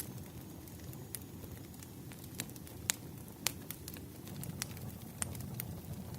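Wood fire crackling: a steady low rumble of burning logs with irregular sharp pops, the loudest two about three seconds in.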